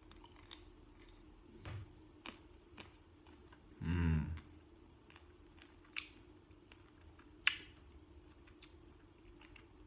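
Chewing on the crunchy chocolate-and-cookie coating of a Bulla Crunch ice cream bar: scattered small crackles and clicks. Near the middle comes a short hummed "mm" from the eater, the loudest sound.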